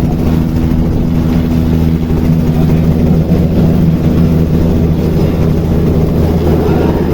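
A loud, steady engine drone with a low, even hum.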